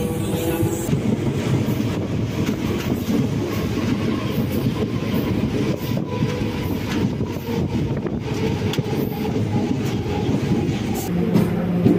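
MEMU electric multiple-unit train running along the track: a steady rumble of wheels on rail with some clickety-clack. A steady low hum sets in near the end.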